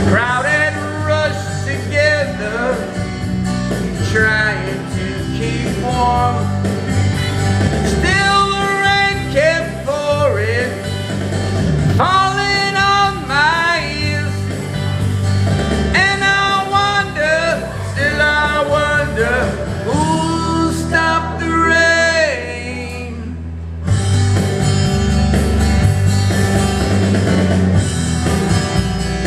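Country-rock band music: guitars, bass and drums under a melodic lead line with sliding, bending pitches. The band thins out briefly near the end, then comes back in full.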